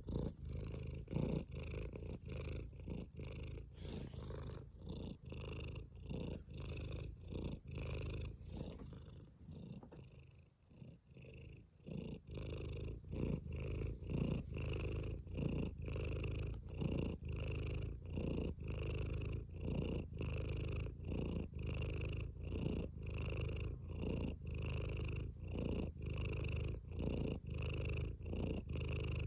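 Domestic cat purring close to the microphone, a steady rhythmic in-and-out purr of about one and a half cycles a second, growing softer for a few seconds near the middle before picking up again.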